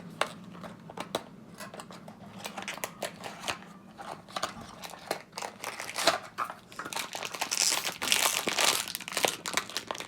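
Crinkling and tearing of blind-box packaging being opened by hand, in irregular crackles that grow denser and louder about eight seconds in.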